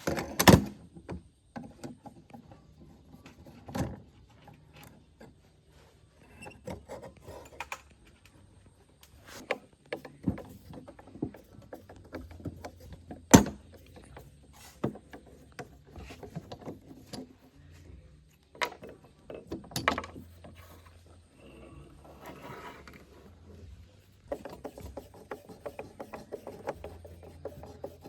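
Irregular knocks and clinks of machine parts being handled at a workbench, and a stretch of steady scraping near the end.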